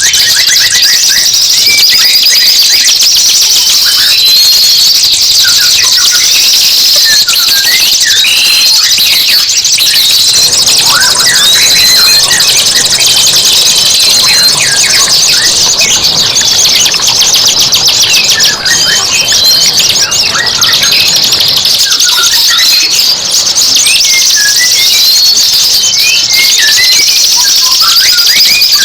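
Recorded songbird master track of dense, overlapping birdsong: fast high chirps, trills and short rising and falling whistles, with a steady high-pitched rasp behind them.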